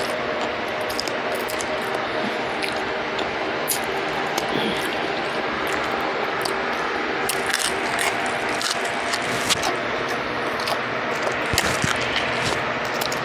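Close-up eating sounds of deep-fried trout being picked apart and chewed: scattered small crunches and mouth clicks over a steady hiss.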